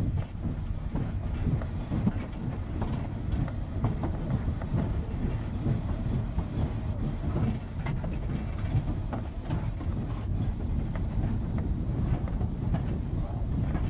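East Broad Top narrow-gauge steam train under way behind locomotive No. 15, heard from the car coupled to its tender: a steady low rumble of wheels on rail with irregular clicks and clanks.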